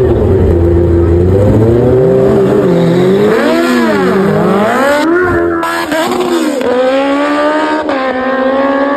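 Car engine revving hard, its pitch sweeping up and down, then holding a steady high note under sustained acceleration through the last third.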